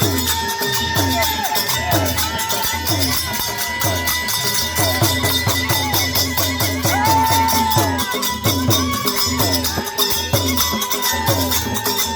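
Rajasthani folk music on the algoza, the paired double flute: a steady drone tone under a quick, ornamented melody, over a steady beat.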